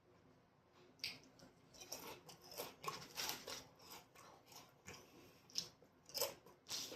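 A person chewing and biting food close to the microphone: irregular soft bites and mouth sounds that start about a second in.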